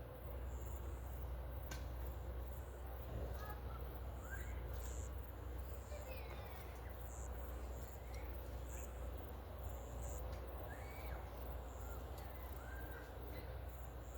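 Birds calling outdoors: scattered short chirps over a steady low rumble.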